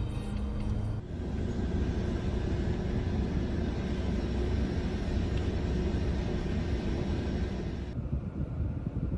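Steady rumble of a moving vehicle and road noise. The sound changes abruptly about a second in and again near the end.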